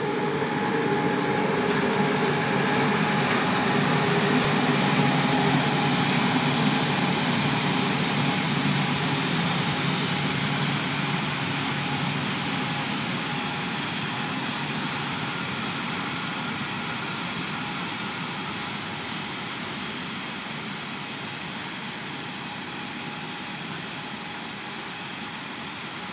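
Freight train of tank wagons rolling slowly past, a steady rumble of wheels on rail that is loudest in the first ten seconds and then slowly fades.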